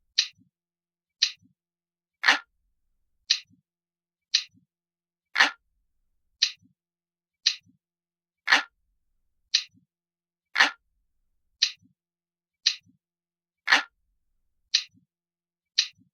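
Analog clock ticking steadily about once a second, every second or third tick louder than the rest.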